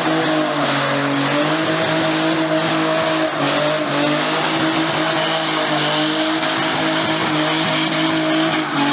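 Car engine held at high, nearly steady revs with tyres screeching under wheelspin, as in a burnout; the revs dip briefly twice.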